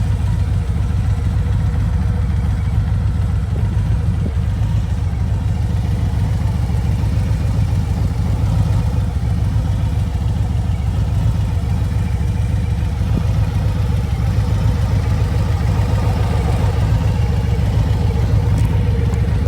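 Harley-Davidson Road Glide's Milwaukee-Eight 107 V-twin running steadily on the move, with a heavy low rumble that holds level throughout and no revving.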